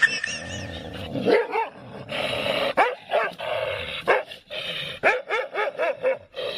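A dog barking in short, high calls, the barks coming quicker, several a second, in the last couple of seconds.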